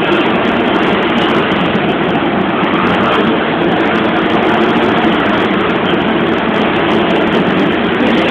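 Motocross bikes' engines running together in a steady, loud din.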